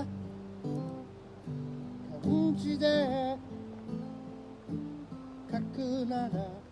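Acoustic guitar being strummed through a song, with a voice singing short phrases over it about two seconds in and again near the end.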